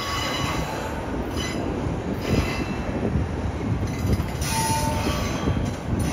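Double-stack intermodal container train rolling past: a steady rumble of wheels on the rails, with short high-pitched wheel squeals coming and going.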